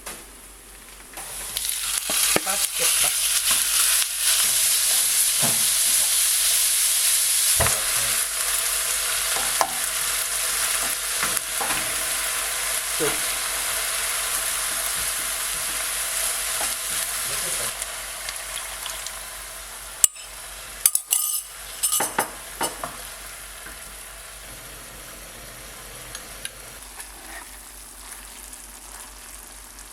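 Food sizzling in a hot frying pan. The sizzle starts about a second and a half in and dies down after about eighteen seconds, followed by a few short clicks and knocks.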